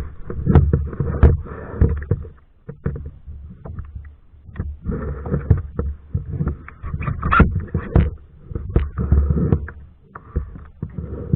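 Kayak paddling: irregular knocks, clicks and splashes from the paddle and water, over a low rumble that surges and fades.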